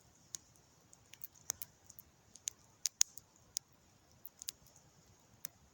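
Campfire of wet firewood burning, with irregular sharp crackles and pops from the wood as it catches.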